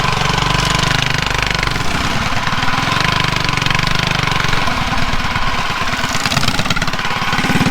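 Mini bike's small engine running with a rapid firing beat.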